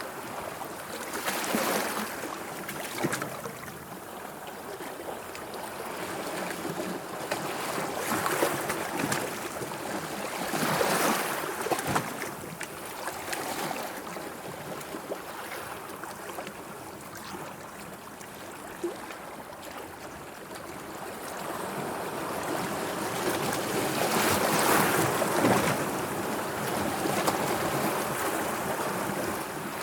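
Sea waves washing and lapping, swelling and ebbing in irregular surges every few seconds.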